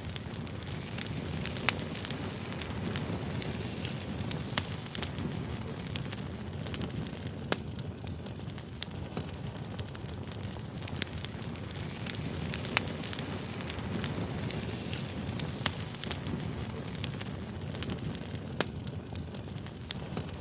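Firewood burning: a steady low rush of flame with scattered sharp crackles and pops from the burning logs.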